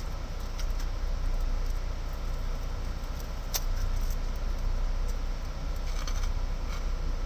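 Low, steady rumble of an idling engine heard inside a truck cab, with a few faint clicks over it.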